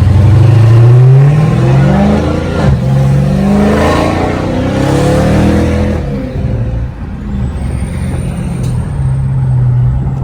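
2023 Dodge Charger Hellcat's supercharged 6.2-litre V8 through a mid-muffler-delete exhaust, accelerating hard through several upshifts: the pitch rises in each gear and drops back at each shift. About six seconds in it eases off to a steadier cruise.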